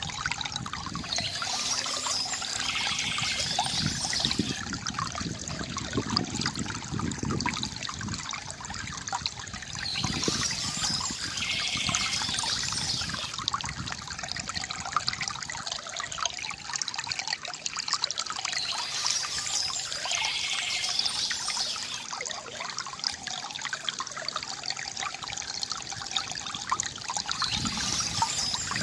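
Water trickling and pouring from a bamboo fountain, a steady gurgling flow with a brighter splash that comes back about every nine seconds.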